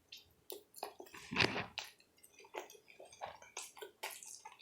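Close-miked eating sounds: irregular wet mouth clicks and smacks of someone chewing, with a louder, longer squelch about a second and a half in.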